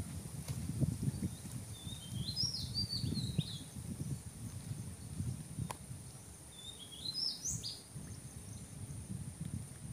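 A bird chirping in two short runs of quick high notes that step up and down, over a low rumbling noise and a faint steady high whine.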